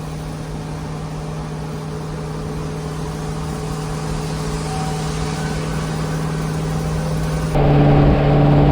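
Turbocharged LS V8 engine running with a steady drone that slowly grows louder. Near the end the sound abruptly becomes louder and duller.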